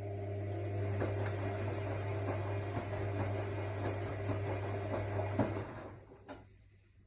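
AEG Lavamat L62850L washing machine's motor turning the drum during a wash: a steady hum with rattling and clicking from the load, which stops about six seconds in, followed by a single click.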